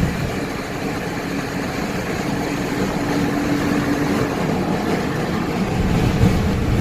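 A car on the move: steady engine and road noise, with a faint steady hum in the middle few seconds.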